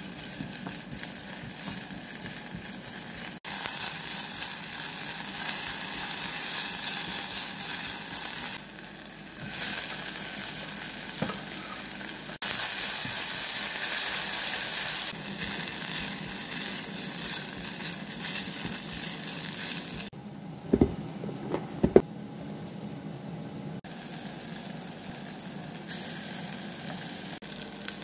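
Chopped green onion and sliced onion sizzling as they are stir-fried in a ceramic pot, stirred with a silicone spatula. The sizzle cuts in and out abruptly and drops away for a few seconds about two-thirds through, where a few sharp knocks sound.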